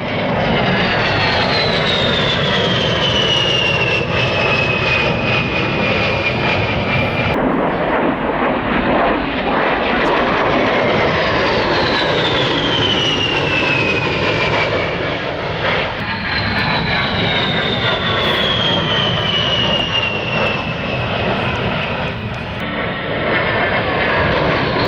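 A-10 Warthog's twin General Electric TF34 turbofans running loud as the jet flies past, with a high whine that slides down in pitch on each pass. The sound changes abruptly twice, as between separate passes.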